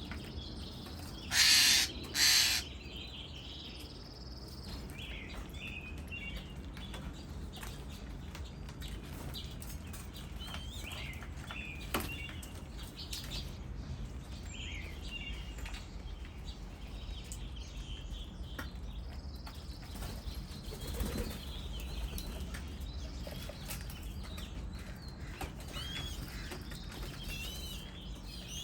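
Wild birds singing: scattered chirps and short whistled phrases from several songbirds over a steady low outdoor rumble. Near the start, two loud brief rushing sounds come less than a second apart.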